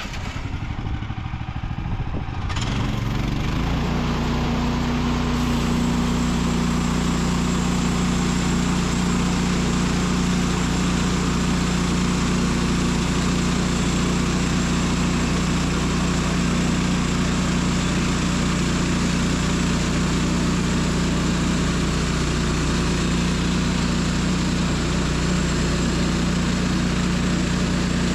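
Portable sawmill's engine coming up to speed over the first few seconds, then running steadily at high throttle.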